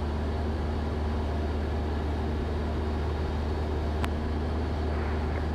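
Cessna 172's piston engine and propeller droning steadily in cruise, heard inside the cockpit. A single short click about four seconds in.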